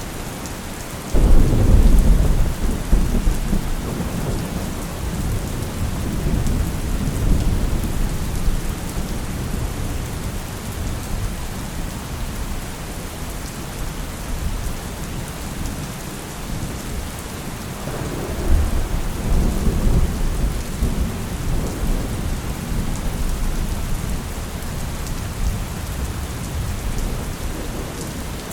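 Steady rain with thunder: a sharp, loud clap of thunder about a second in that rolls on as a long, fading low rumble, and a second, softer roll of thunder about two-thirds of the way through.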